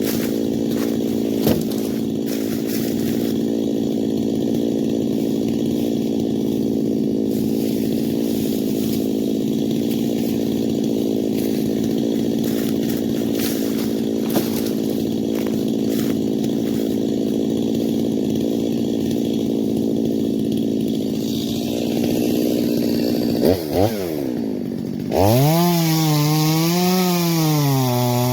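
Stihl MS250 two-stroke chainsaw running at a steady high throttle for over twenty seconds. Near the end the pitch drops, then the engine revs up and down in quick swings.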